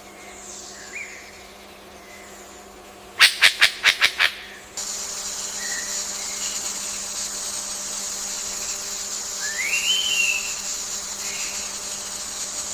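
Forest ambience: scattered bird calls, a quick run of about six sharp clicks a little past three seconds in, then a steady high insect drone that sets in at about five seconds. A single rising-then-falling bird call comes near the end.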